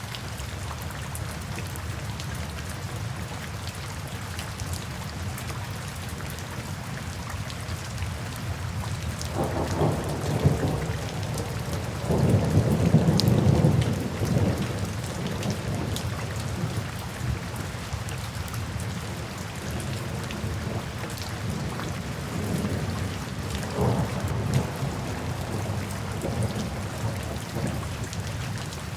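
Steady rain falling, with a low roll of thunder that swells from about a third of the way in, peaks in the middle and fades, and a softer rumble a few seconds before the end.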